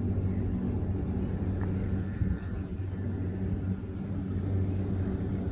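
Steady low mechanical rumble with a constant low hum, even throughout, with no distinct events.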